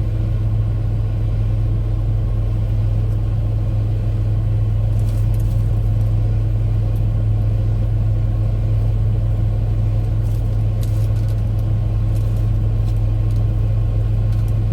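Steady low rumble of an idling vehicle engine, unchanging throughout, with a few faint clicks.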